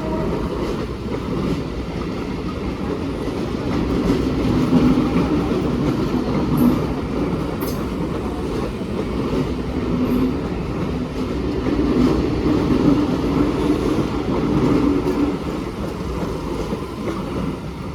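Mumbai suburban EMU local train running along the track, a continuous rumble of wheels and motors that eases off near the end.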